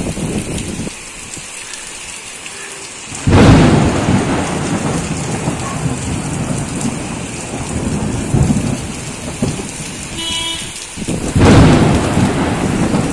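Heavy rain pouring onto concrete rooftops and surfaces, a steady hiss. Two sudden loud, low rumbling surges come about three seconds in and again near the end, then fade back into the rain.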